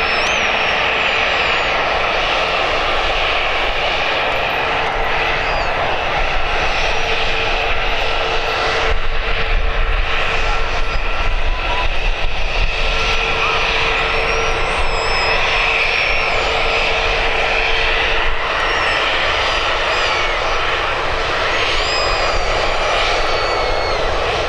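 Airbus A320's CFM56 jet engines running with a steady roar and a steady whine, a little louder about a third of the way in. Thin chirps sound over it, mostly in the second half.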